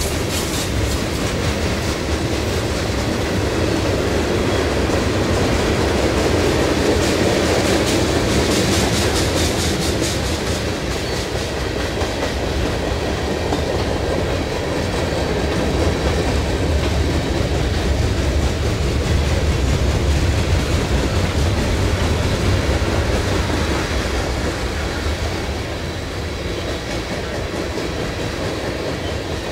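Freight cars of a long mixed freight train (hoppers, gondolas and tank cars) rolling past: a steady rumble of steel wheels on rail with a clickety-clack clatter.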